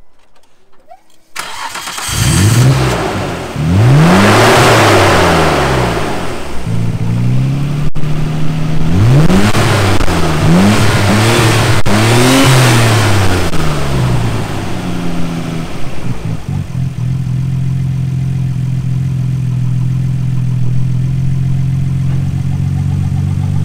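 Nissan Skyline GT-R R34's RB26DETT twin-turbo straight-six starting about a second in, then revved, once and then in a quick run of several blips, straight after the start, before settling into a steady idle. Heard from the front with the bonnet open.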